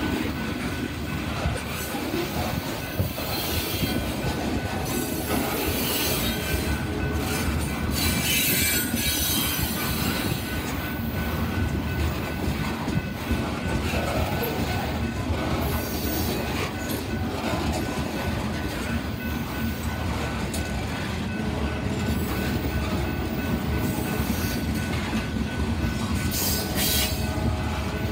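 Freight cars of a gravel train rolling past close by: a steady rumble of steel wheels on rail. High wheel squeal rises about eight seconds in and again near the end.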